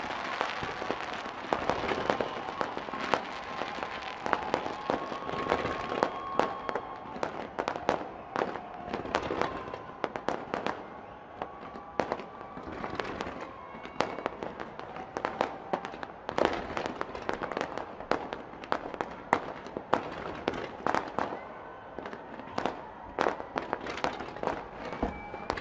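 Fireworks display: a dense run of sharp bangs and crackling pops, several a second, over a continuous wash of bursts.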